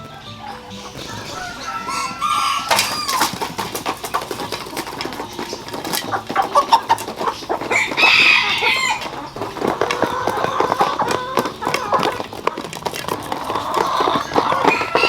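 Chickens clucking and calling, with a rooster crowing about eight seconds in and more calls near the end, over many small sharp clicks.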